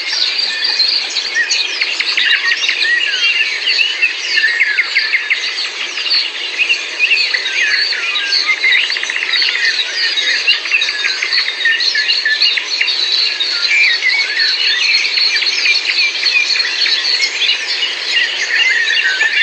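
A dense chorus of many songbirds chirping and trilling over one another, with no breaks.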